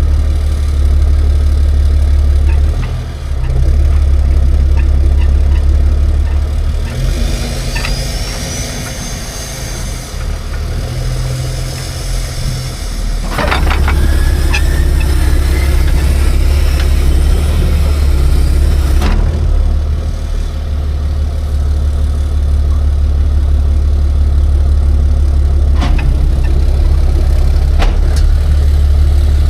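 Tow truck's engine idling with a steady low rumble. Partway through it eases off for a few seconds while a rising whine is heard, then a sharp knock lands and the idle comes back, with a couple more knocks near the end.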